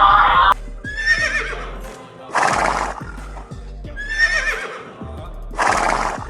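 Horse whinnying twice, each quavering call followed by a short noisy burst, over steady background music.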